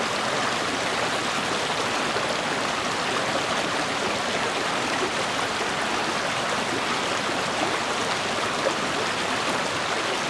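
A river or stream running, a steady rushing of water without a break.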